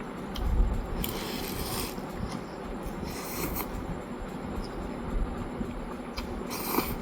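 Close-up eating sounds of a person eating noodles: three short, hissy slurps, one about a second in, one around the middle and one near the end, over a low rumble of chewing and handling.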